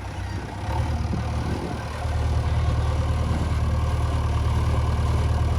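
Heavy vehicle's diesel engine idling steadily, a little louder from about two seconds in.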